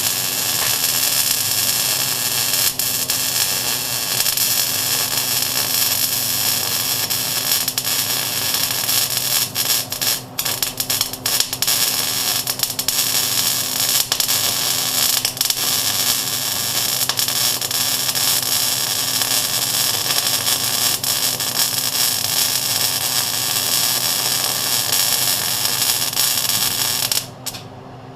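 MIG welding arc running a continuous bead on steel: a steady crackling hiss, broken by a few short gaps about ten seconds in, that cuts off shortly before the end.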